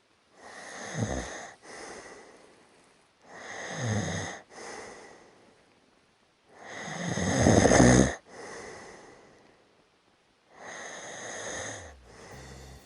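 A person snoring in sleep: four breaths about three seconds apart, each a snore followed by a softer out-breath. The third snore is the loudest.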